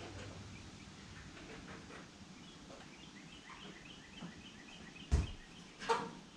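A faint run of quick, high chirps repeating evenly for a few seconds, then one loud thump about five seconds in, followed by a short squeak-like sound.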